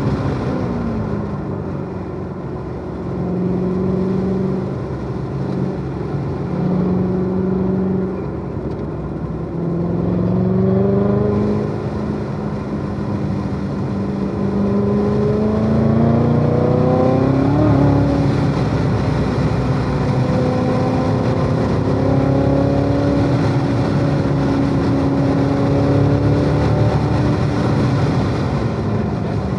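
Chevrolet Corvette C7 Z06's supercharged 6.2-litre V8 under hard track driving, its pitch climbing under acceleration and dropping again several times as the car shifts and slows for corners.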